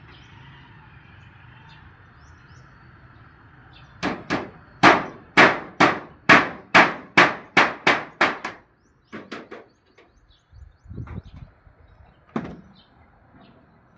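A hammer striking about a dozen times in quick, even succession, roughly two blows a second, then a few scattered blows.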